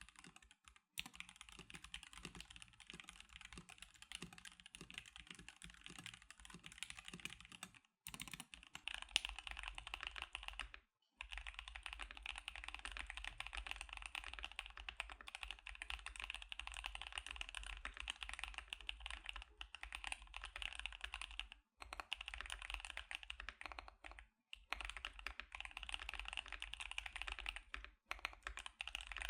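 Continuous fast typing on custom mechanical keyboards: first a stock NovelKeys NK87, then, after a short break partway through, a KBD75 with Gazzew Boba U4T tactile switches and CannonCaps CXA keycaps.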